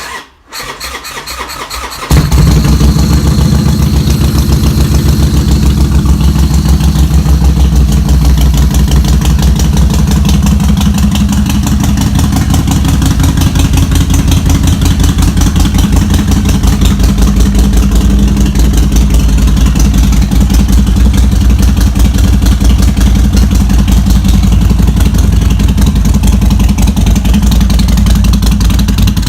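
Harley-Davidson Sportster 48's air-cooled 1200 cc V-twin with a custom exhaust, cold-started. The starter cranks for about two seconds, then the engine catches and settles into a loud, steady idle with an even, pulsing exhaust beat.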